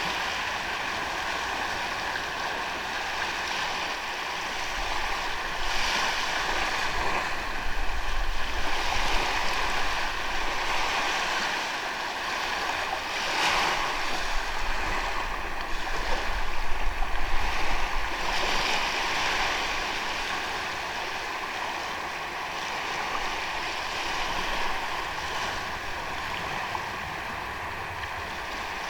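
Ocean waves breaking and washing up the shore, the surf swelling and falling back every few seconds, with some wind rumble on the microphone during the louder swells.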